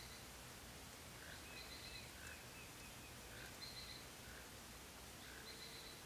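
Faint bird calls: short high chirps about every two seconds and a brief run of small rising notes, over a low steady background hiss.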